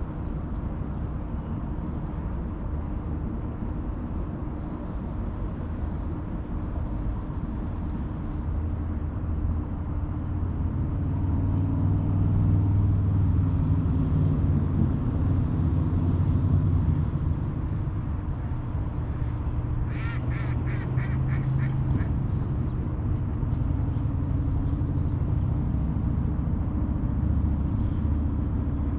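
Steady low rumble of distant traffic, swelling in the middle with a passing engine hum. About two-thirds of the way through, a duck quacks in a quick run of about eight quacks lasting two seconds.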